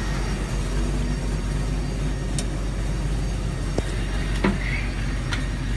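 1969 Ford Bronco's engine, fitted with Edelbrock Pro-Flow fuel injection, running steadily at idle, with a few sharp light clicks in the second half.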